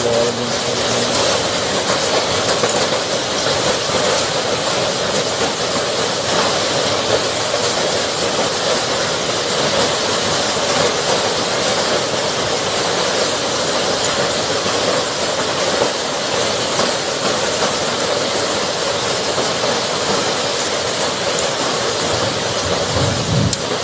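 Hailstorm with heavy rain and strong wind: a loud, steady, dense rush of falling hail and rain.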